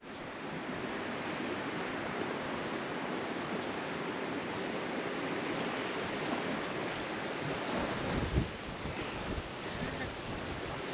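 Steady rushing of gale-force wind, with a brief low buffet of wind on the microphone about eight seconds in.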